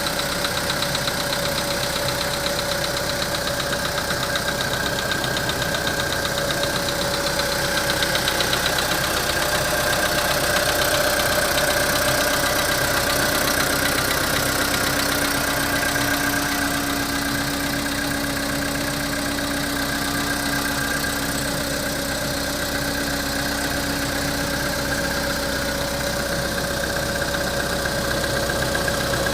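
Volkswagen Polo sedan's 1.6-litre four-cylinder petrol engine idling steadily about a minute after a cold start.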